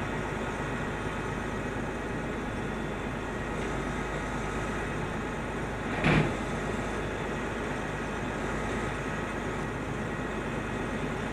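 Engine running steadily, with one short, loud sound about halfway through.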